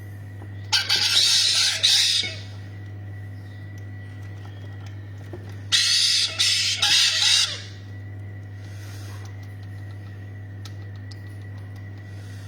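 Parrots squawking: two loud bouts of harsh screeching, one about a second in and another near the middle, over a steady low hum.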